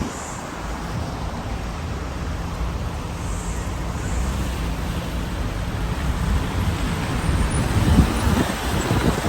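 Steady road noise of a car driving, tyre and engine rumble with a hiss over it, and a few heavier bumps near the end.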